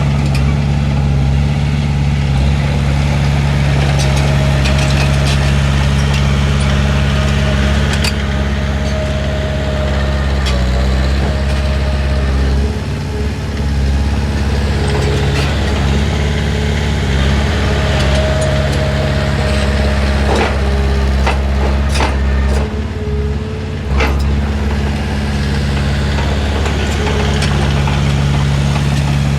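Heavy diesel engine of earthmoving machinery running steadily, with thin squeals on and off and scattered metallic clanks. The engine dips briefly twice, about a third and three quarters of the way through.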